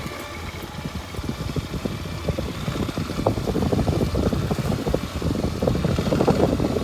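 Kawasaki Super Sherpa's single-cylinder four-stroke engine running as the motorcycle is ridden, with uneven rumble and knocking that gets louder about three seconds in.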